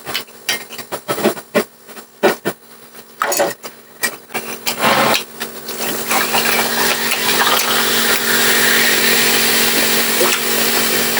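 Spoon and fork clinking and scraping against a plate in short, irregular strokes. From about six seconds in, a loud, steady hiss takes over.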